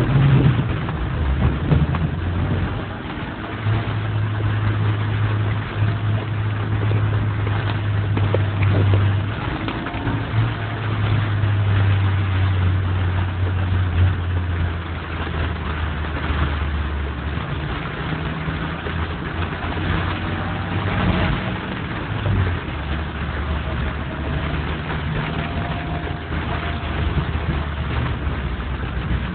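Car traffic in heavy rain: a steady low engine hum that shifts in pitch now and then, over a continuous hiss of rain and wet roads.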